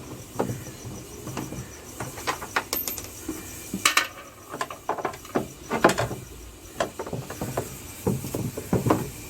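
Irregular clicks and knocks, like tools and metal parts being handled in a repair.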